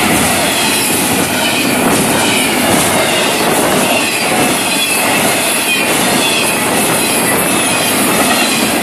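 Intermodal freight cars of a Florida East Coast Railway train rolling past at speed: a loud, steady rumble and clatter of steel wheels on rail, with faint wavering wheel squeal over it.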